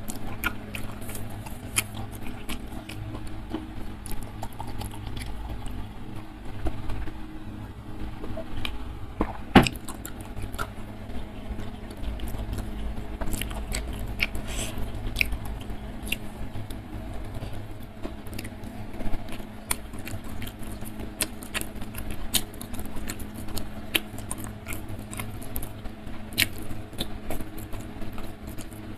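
Close-miked chewing and mouth sounds of a person eating rice and chicken liver and gizzard in chili sambal by hand: many small wet clicks and smacks, with one louder click a little under ten seconds in.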